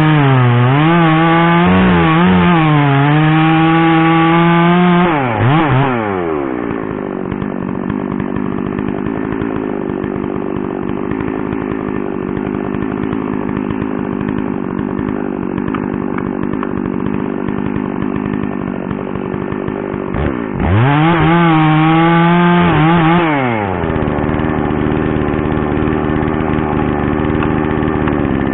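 Two-stroke chainsaw at full throttle, its pitch dipping and rising as it works, dropping to idle about six seconds in. About three-quarters of the way through it revs hard again for a couple of seconds, then settles back to a steady idle.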